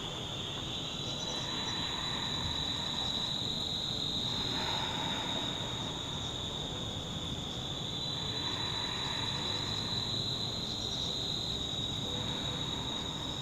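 Steady, high-pitched, unbroken chorus of insects, over faint outdoor background noise.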